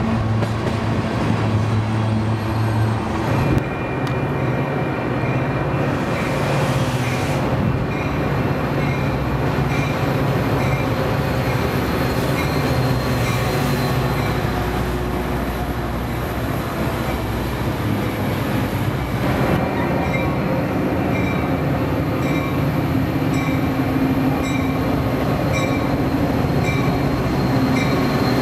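Trains passing close by. First the end of a freight train of tank cars rolls past, then Metra bilevel commuter coaches run by with a steady rumble of wheels on rail. Near the end a Metra diesel locomotive comes in.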